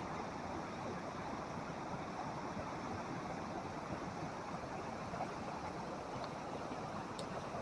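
Flash-flooded creek rushing steadily, a dense, even roar of fast-moving floodwater.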